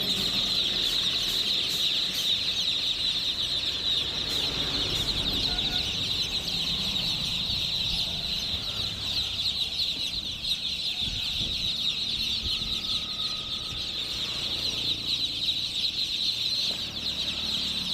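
A large mass of young chicks peeping together: a dense, continuous chorus of high, short cheeps.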